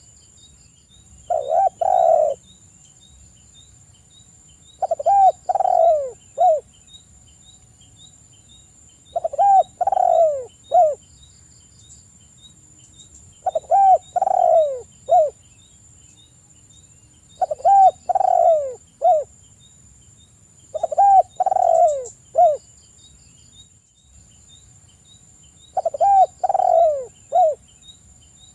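Spotted dove cooing: a phrase of three or four coos repeated about every four seconds, seven times. A steady faint high-pitched tone runs underneath.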